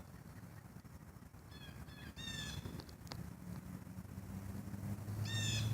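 A crow cawing, a short run of calls about two seconds in and another near the end. A low steady hum grows louder through the second half.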